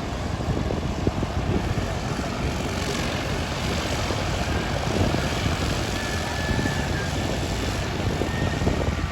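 The four Wright R-1820 Cyclone radial engines of a Boeing B-17 Flying Fortress running steadily with their propellers turning, a loud unbroken drone.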